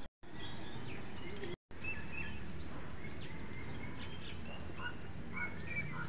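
Several birds chirping and calling with short, quick notes over a steady low background rumble. The sound drops out to silence twice, briefly, in the first two seconds.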